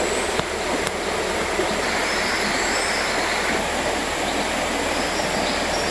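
Steady rushing of a clear mountain river, an even noise that does not change.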